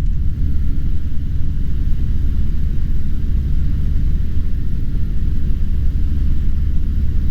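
Cessna 150's Continental O-200 engine and propeller heard as a steady low drone in the cabin, running at approach power.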